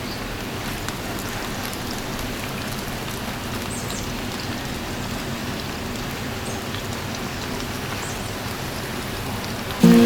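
Twisted doughnuts (kkwabaegi) deep-frying in hot oil, a steady sizzle. Music comes in near the end.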